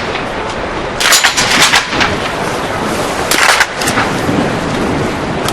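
Shots from biathletes' small-bore .22 rifles on the range: a quick cluster of cracks about a second in and another about three and a half seconds in, over steady wind noise.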